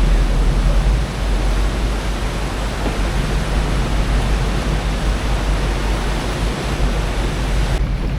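Steady, loud rushing noise of wind and water with a deep rumble underneath. The sound changes abruptly near the end.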